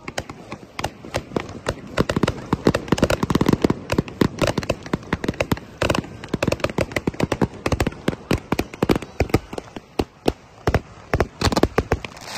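Fireworks crackling: a dense, irregular run of many sharp pops and crackles, with louder clusters twice.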